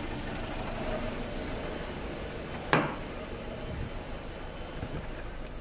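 Ford C-Max 1.6 TDCi diesel engine idling with its idle hunting: the engine control unit is dropping the main injection pulse on the third injector, which the mechanic puts down to a faulty ECU. A single sharp click about two and three-quarter seconds in.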